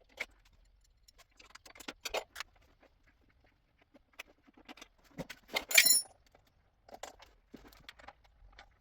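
Scattered clicks and metallic clinks of tools and parts being handled while a motorcycle's seat and fuel tank are taken off, with one louder metallic clank and scrape about six seconds in.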